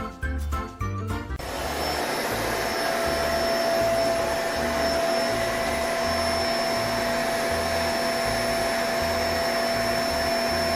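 Music for about the first second and a half. Then an electric appliance motor comes on and runs with a steady whine and a rush of air, with the music's low beat carrying on underneath.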